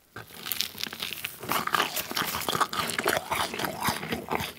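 Close-miked chewing of a sauce-dipped piece of roasted potato: dense wet mouth clicks and smacks, without pause.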